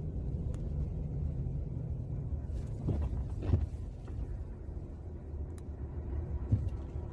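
Ford F-250 pickup with a 6.7 L Power Stroke diesel running steadily, its sound sitting low, while it plows snow. There are a couple of short knocks about three seconds in and again near the end.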